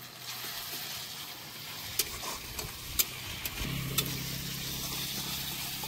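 Chopped onion with crushed garlic and chilli sizzling in hot oil in a kadhai, stirred with a metal spatula that clicks against the pan a few times. A low steady hum joins a little past halfway.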